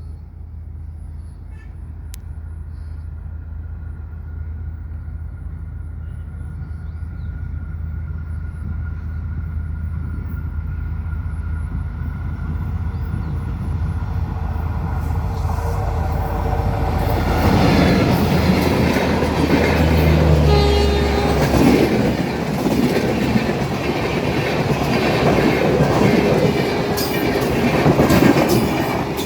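Express passenger train approaching, its low rumble growing steadily louder. From about 18 seconds in it passes close by, with loud wheel-on-rail noise and clickety-clack over the rail joints.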